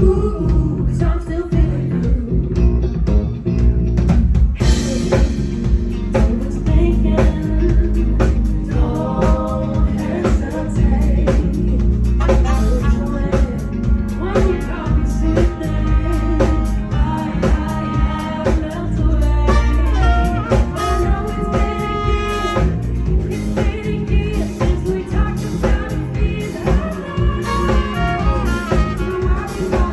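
Live band playing a song: drum kit and bass keep a steady beat under a melody line with singing.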